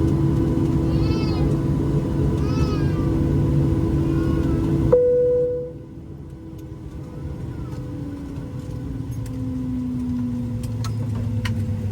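Boeing 737-800 cabin noise with the CFM56 engines at idle, and a young child crying out several times. About five seconds in, the cabin drone cuts away abruptly and the engine whine winds down in pitch: the engines are being shut down at the gate.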